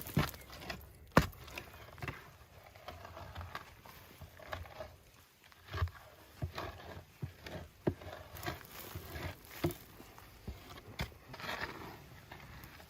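Irregular scraping and knocking of earth being dug and worked by hand for a clay oven, with one sharper knock about a second in.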